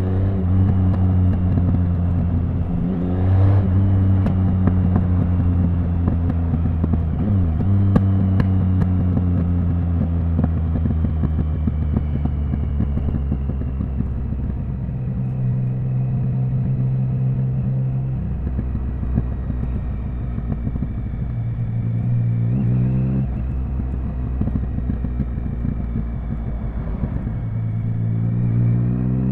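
Triumph Speed Triple 1050 inline three-cylinder motorcycle engine riding at city speeds. The revs rise in short sweeps a few times, about three seconds in, about seven seconds in, around twenty-two seconds and again near the end, with stretches of steady, lower-rev running between.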